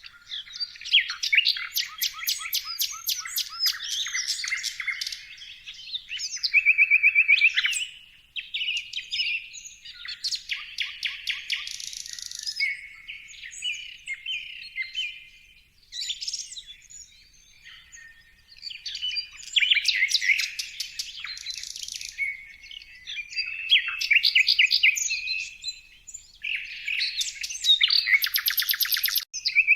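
Several songbirds singing and chirping at once, dense and overlapping: fast trills, rattling runs of rapid repeated notes and short whistled calls, with brief lulls around 16 and 18 seconds in.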